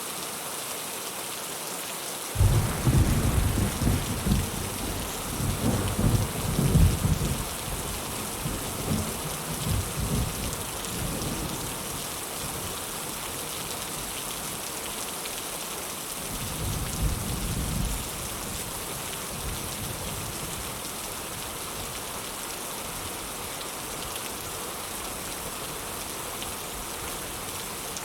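Heavy rain falling steadily, with a clap of thunder starting suddenly about two seconds in and rolling on for several seconds before fading, then a shorter rumble of thunder about halfway through.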